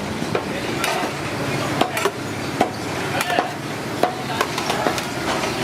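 Irregular clinks and knocks of metal utensils against cookware, about a dozen in a few seconds, some briefly ringing, over a steady background hum and hiss.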